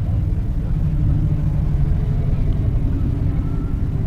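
Low, steady rumble of a car engine idling.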